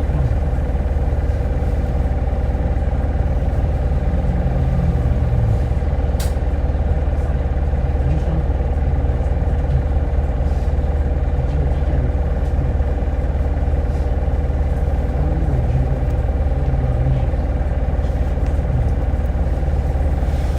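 Hino Blue Ribbon hybrid city bus heard from inside the cabin: steady engine and drivetrain hum with a constant whine, light rattles, and a single sharp click about six seconds in.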